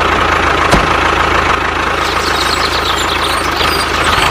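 DIY mini tractor's small motor running steadily, a low rumble under a constant mid-pitched whine, with a single short knock about a second in.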